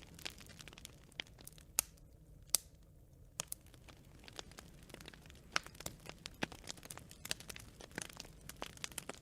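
Wood fire of burning branches crackling, with irregular sharp snaps and pops. The loudest pops come about two and two and a half seconds in, just before a brief lull.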